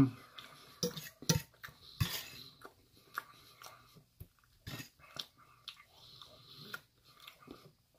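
Close-up chewing and mouth sounds of a person eating, with irregular wet smacks and sharp clicks. A short vocal sound comes right at the start.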